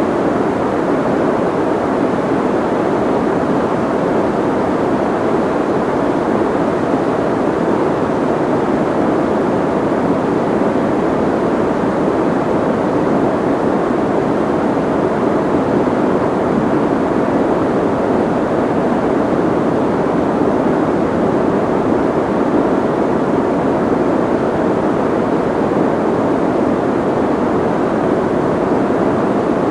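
Steady soft white noise: an even, unchanging hiss, muffled, with most of its weight in the low-middle range and little treble.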